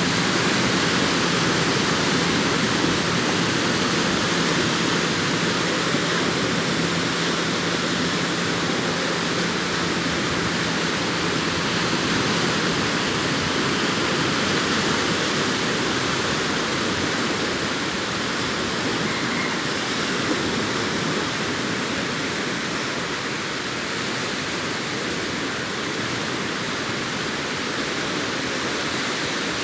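Sea surf washing onto a sandy beach: a continuous, even rush of breaking waves, easing slightly after the middle, with a faint low hum under it for the first half.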